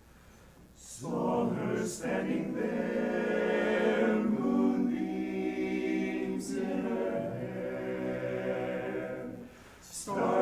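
Men's a cappella chorus singing in close harmony, holding sustained chords. The singing comes in about a second in and breaks off briefly near the end before the next phrase starts.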